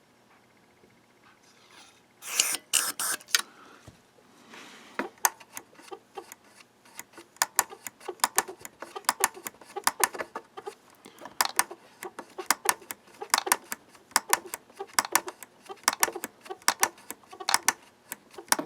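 A few short bursts of contact-cleaner spray hissing into a transistor radio's volume potentiometer, followed by a long run of quick, irregular small clicks and taps as the pot and radio are worked by hand.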